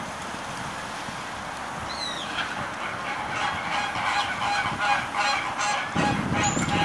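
A bird honking: a rapid, pulsing series of honking calls begins about two and a half seconds in and keeps going, after a short falling whistle at about two seconds.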